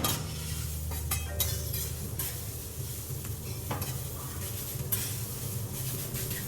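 Food sizzling on a hot teppanyaki griddle, with the short scrapes and taps of metal spatulas working it, over a steady low hum.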